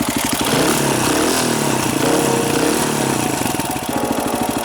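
Small single-cylinder off-road motorcycle engine running at low speed, its pitch rising and falling gently with the throttle.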